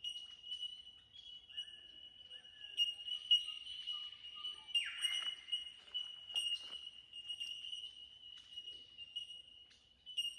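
Bell miner colony (Australian bellbirds) calling: many overlapping ringing 'tink' notes at one high pitch, running together into a continuous chime. About five seconds in, another bird gives one quick falling call.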